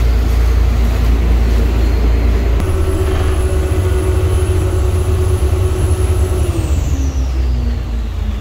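Boat engine running with a deep, steady rumble; its note shifts about two and a half seconds in, adding a thin high whine, and near the end the pitch slides down as the engine eases off.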